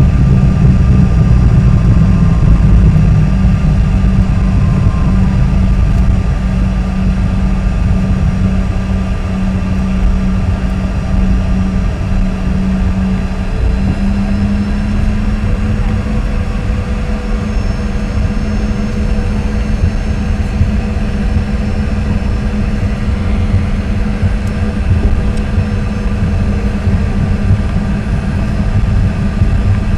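CRJ-200's rear-mounted CF34 turbofan engines heard from inside the cabin: a loud, steady drone with a low hum and thin whines. The hum steps up slightly about halfway through.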